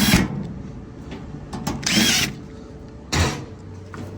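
Cordless drill driving in the two top screws of a dryer cabinet, in two short bursts about two and three seconds in.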